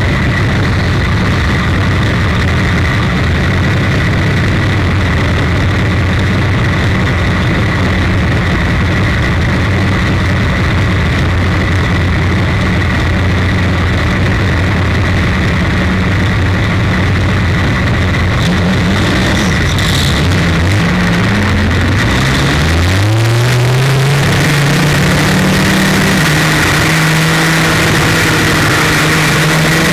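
Race car's 300 cubic inch straight-six engine running at a steady low speed. About 21 seconds in, it revs up with a rising pitch, then holds steady at higher revs.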